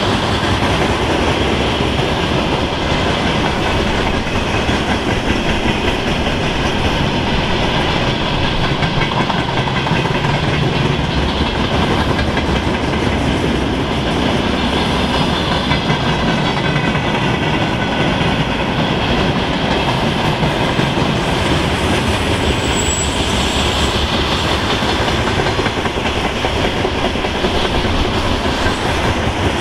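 Freight train rolling past at a steady, loud level, the noise of its wagons' wheels on the rails.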